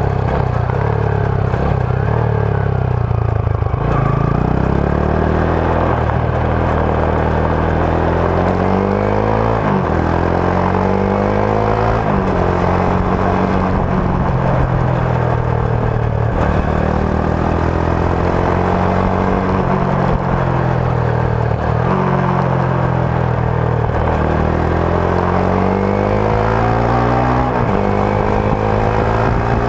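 Rusi Sigma 250 motorcycle's stock exhaust on the move. The engine note repeatedly climbs in pitch and drops back sharply at gear changes, several times over.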